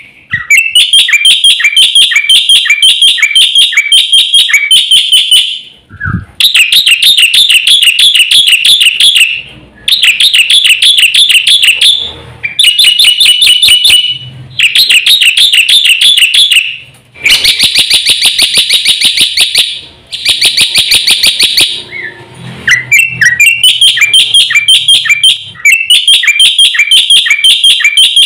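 Black-winged myna (jalak putih) singing a loud, fast chattering song. It comes in runs of rapidly repeated sharp notes, each run a few seconds long, with brief breaks between them.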